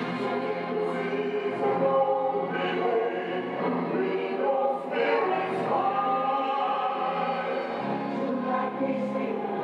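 Choral music, many voices singing and holding long notes together.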